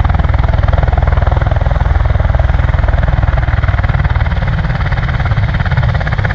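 V-22 Osprey tiltrotors running on the ground, their engines warming up and the proprotors turning with a loud, steady, rapid beat.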